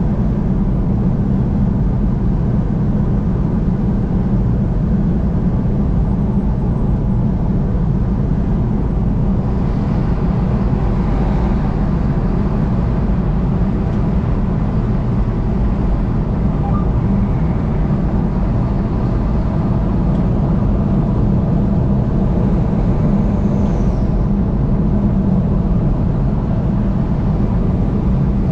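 A car driving at highway speed, heard from inside the cabin: a steady, even low rumble of road and engine noise.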